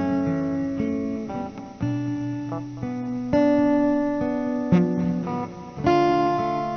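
Acoustic guitar playing chords, a new chord struck about every second or so and left to ring and fade.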